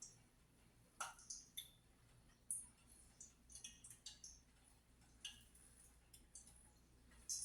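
Faint, irregular crackles and pops of hot oil as corn dogs deep-fry, the sharpest ones about a second in, near two and a half seconds, and near the end.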